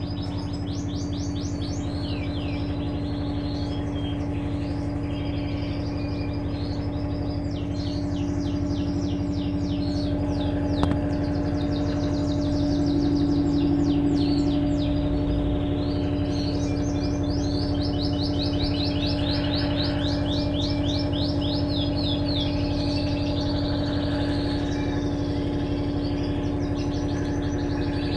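Small birds chirping and trilling in quick, repeated high notes over a steady low hum.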